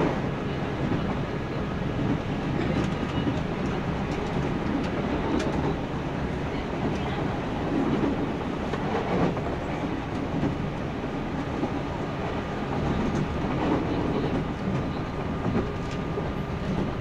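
JNR 165 series electric multiple unit running along the line, heard from inside motor car KuMoHa 165-65: a steady rumble with sharp clicks now and then from the wheels passing over rail joints.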